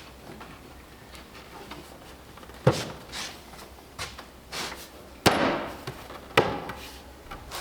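A handful of sharp knocks and thuds at uneven intervals, the loudest about two and a half seconds in and twice more in the second half, with lighter taps between.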